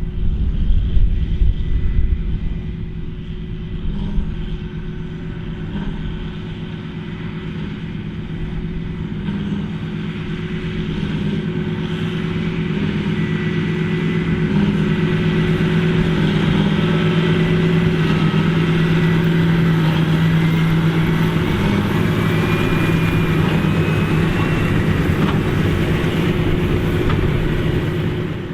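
Large farm tractor's diesel engine running steadily under field work, growing louder as it comes closer over the first two-thirds, with a faint whine rising in pitch in the second half.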